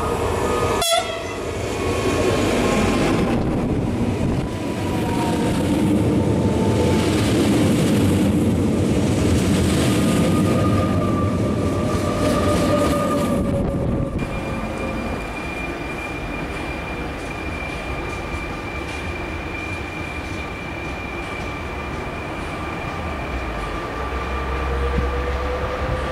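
Fertagus double-deck electric commuter train passing close at speed: a sharp gust as the front goes by about a second in, then a loud rush of wheels and air with a whine falling in pitch as the train passes. About halfway through this gives way abruptly to a quieter, steadier electric train whine.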